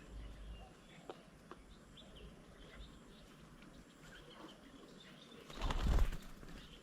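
Faint bird chirps, then about five and a half seconds in a loud half-second flurry of wingbeats as a bird flaps off or onto the bird table.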